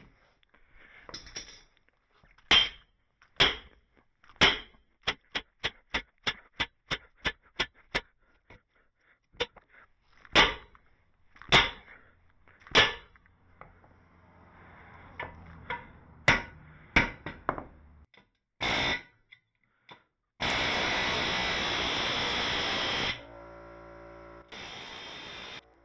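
Hammer blows on a hot square steel tube over a mandrel: single strikes about a second apart, a quicker run of about three blows a second, then more single strikes. Near the end a loud steady rushing noise runs for about two and a half seconds.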